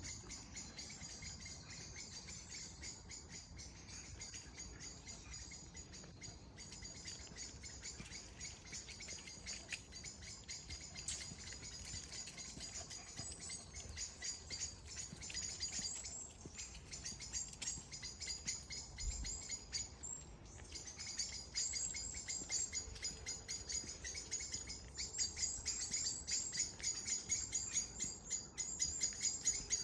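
Continuous high-pitched chirping, fast and unbroken, which grows louder over the last several seconds.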